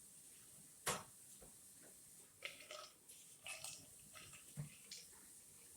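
A mostly quiet room with a sharp click about a second in, then a scatter of light clicks and taps from about two and a half to five seconds in, as of things being handled at a table.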